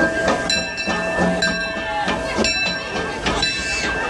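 Disneyland Railroad steam train cars running along the track, with wheels clacking over the rail joints about once a second and a high metallic ringing from the wheels.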